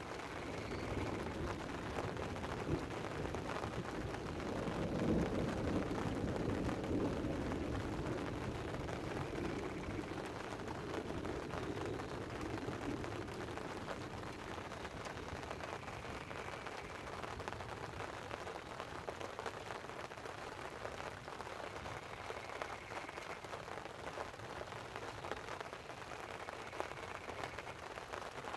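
Light rain pattering on a tent with a steady hiss, and a low rumble of rolling thunder that swells about four seconds in and fades away over the next several seconds.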